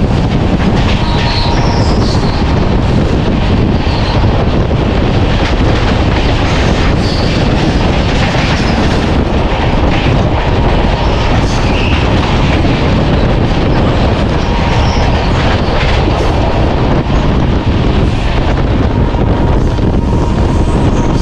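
Indian passenger train running, heard from the side of the coach: a loud, steady rush and rumble with rail clatter and short high wheel squeals. A long freight train of open wagons passes close alongside on the next track.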